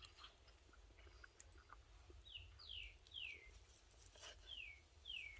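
A bird calling faintly: five short, high whistles, each sliding down in pitch, three close together from about two seconds in and then two more. A few soft clicks sound among them.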